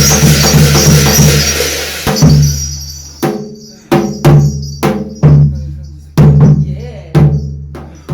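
Ritual percussion of a Korean shaman's gut. Fast drumming under crashing cymbals stops about two seconds in. Then single, spaced drum strokes follow, each ringing out low.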